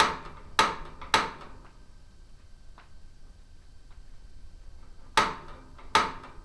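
Igniter of a propane fireplace clicking as its pilot is being lit: three sharp snaps about half a second apart, then two more near the end. The pilot is not catching because of air in the gas line.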